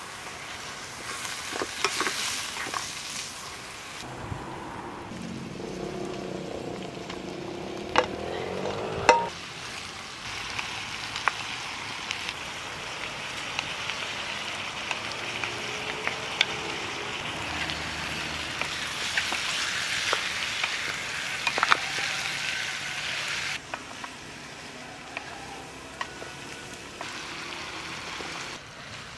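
Meat and yellow split peas sizzling as they fry in a pot over a wood fire, with a wooden spatula stirring and scraping through them. A few sharp clicks and knocks stand out, the loudest two about eight and nine seconds in.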